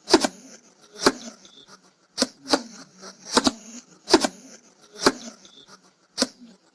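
Hedgehog huffing: short, sharp puffs and snorts about once a second, with a faint hiss between them.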